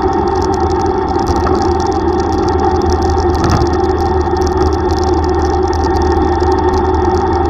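Yamaha YTX125 single-cylinder four-stroke engine running at a steady pace while riding, with steady road and wind noise.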